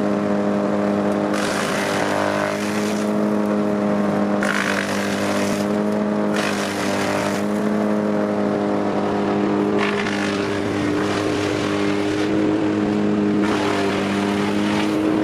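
Engine of a wood-processing machine running at a steady speed. Every few seconds there is a burst of harsher, brighter noise lasting a second or two, as the machine works the wood.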